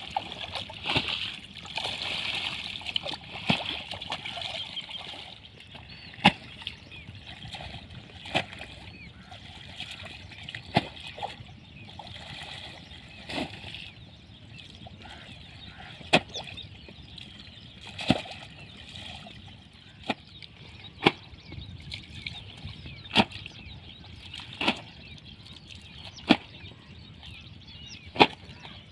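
Water splashing and trickling from the irrigation pump's outlet, heavier for the first few seconds. Sharp clicks or knocks come every two seconds or so.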